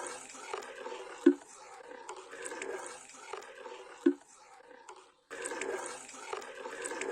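Liquid bubbling and gurgling, with two loud plops about three seconds apart. The sound cuts out briefly about five seconds in.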